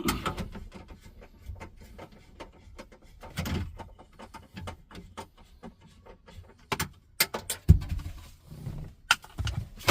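Plastic dash trim panels and a Torx screwdriver being handled as the lower dash comes apart: irregular clicks, rattles and rustling, with a loud knock near the middle.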